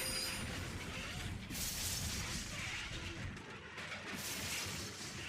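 Die-cast Hot Wheels Trackin Trucks rolling down a plastic track: a continuous rattling rumble of small metal wheels on the track, swelling twice.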